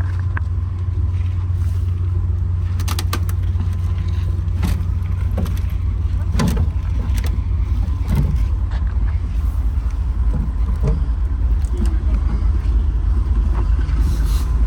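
Steady low rumble of a stopped passenger train's idling diesel locomotives, with scattered short crunching clicks over it.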